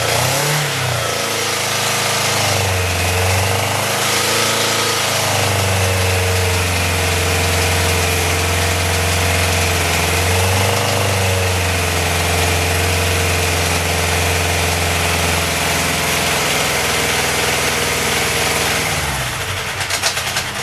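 Yamaha FJ motorcycle's air-cooled inline-four engine running on its first start-up, revs rising and falling several times in the first half and then dropping and stumbling near the end. It sounds rough, which the owner takes to mean it is running on only three cylinders.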